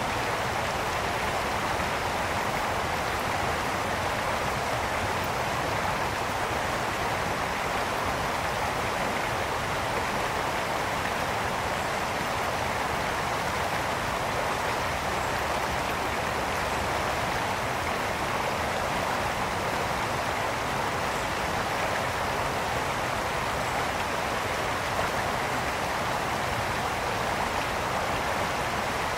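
A mountain brook running steadily over stones, a continuous rushing and splashing of water.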